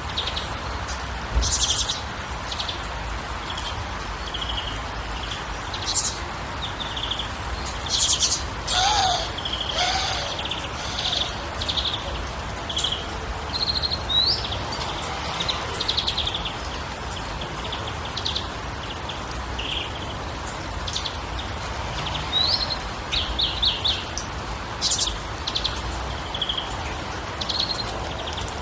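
Several birds chirping and trilling in a natural soundscape: many short high calls scattered throughout, with a lower, gliding call twice about nine to ten seconds in, over a steady background hiss.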